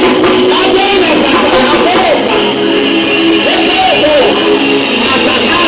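Live worship music with guitar, played loud and continuously, its melody sliding up and down in repeated bends.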